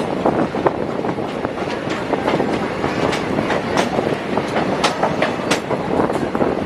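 Moving passenger train: a steady rumble of running noise with irregular sharp clicks and clacks of the wheels over rail joints.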